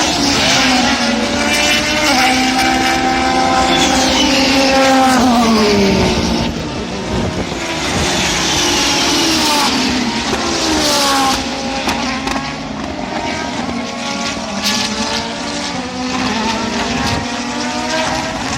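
Racing cars on a circuit passing at speed one after another, several engines at once, revving hard through the gears. Each car's pitch falls as it goes by, loudest about four to six seconds in.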